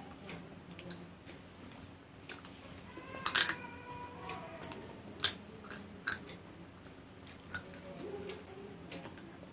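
Popcorn being taken up with the mouth and chewed: scattered crisp crunches, the loudest cluster about three seconds in.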